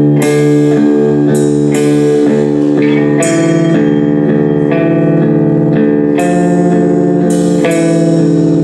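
Live band music: guitar chords struck about once a second over ringing sustained notes, with bass guitar underneath.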